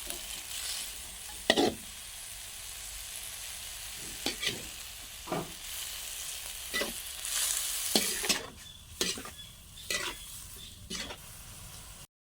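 Food sizzling in hot oil in a pan while being stirred, with a spatula knocking against the pan every second or so. The sizzle swells about seven seconds in, then eases, and the sound cuts off just before the end.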